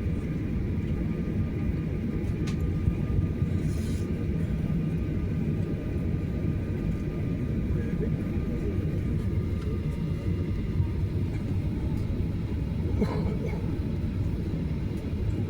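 Steady low rumble inside the cabin of a Boeing 737-900ER airliner before departure, with a faint steady hum above it.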